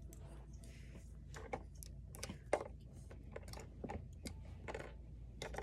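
Plastic pieces of a Hello Kitty toy airplane playset clicking and tapping as they are handled, in irregular light clicks about two or three a second.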